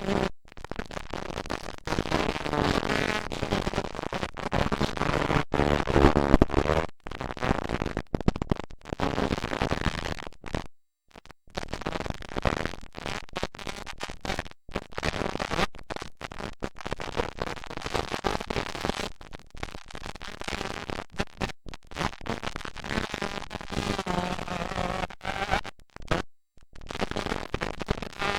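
Motocross dirt bike engines revving, heard as loud, distorted noise with pitch rising and falling, and the sound cutting out briefly again and again.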